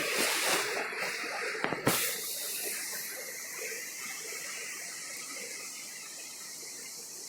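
Water flowing over a small dam, a steady rushing hiss that grows gradually fainter after about two seconds.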